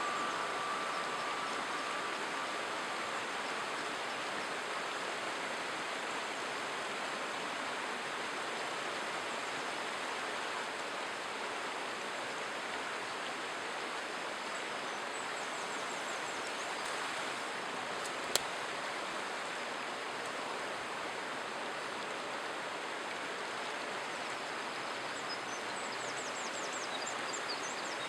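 Running river rushing steadily. Faint rapid bird chirps come twice, about halfway through and again near the end, and there is one sharp click a little past the middle.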